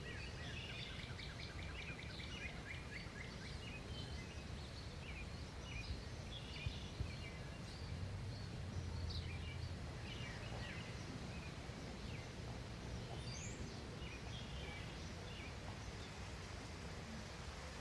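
Small birds chirping in many short, quick calls, scattered throughout, over a steady low background rumble, with a couple of brief knocks about six to seven seconds in.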